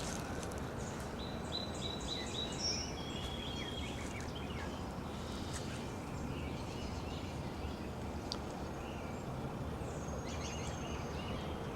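Birds chirping and calling, with a quick run of about five repeated notes a second or so in, over a steady rushing background noise.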